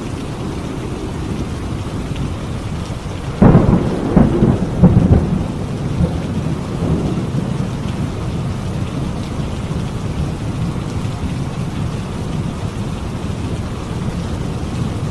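Steady heavy rain with a thunderclap: a sudden sharp crack about three and a half seconds in, rolling into rumbles for a couple of seconds before the rain carries on alone.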